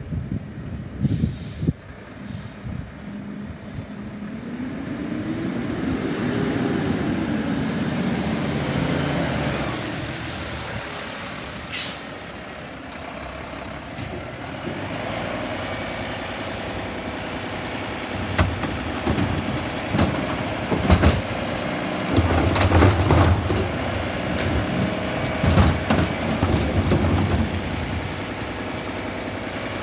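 Garbage truck at work: its diesel engine revs up and back down, an air brake hisses about twelve seconds in, and a run of clanks and knocks follows in the second half.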